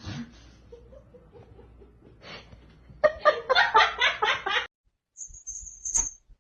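A person laughing in a quick run of short bursts, followed by a brief high-pitched tone near the end.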